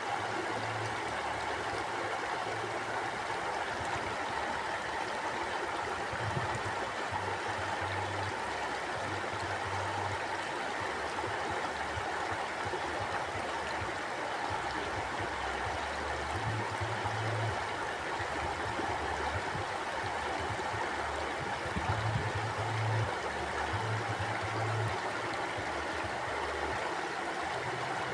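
Mountain river flowing over rocks: a steady rushing and gurgling of water, with low rumbles that come and go.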